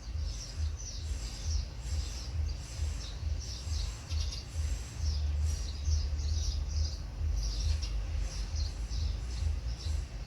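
Small birds chirping repeatedly in quick, short notes over a steady low rumble.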